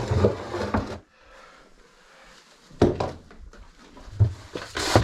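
A few sharp knocks and clatters of hard objects being handled in a small room, with a brief muffled voice at the very start.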